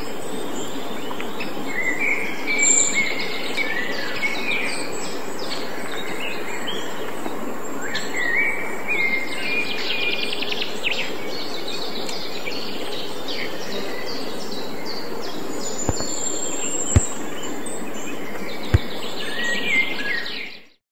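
Songbirds chirping and trilling over a steady background hiss. There are two short low thumps near the end, then the sound fades out.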